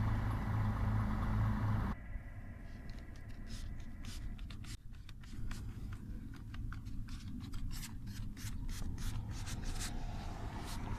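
A steady low hum for about two seconds, then after an abrupt cut a run of small scrapes, rubs and clicks of hands working on plastic interior trim.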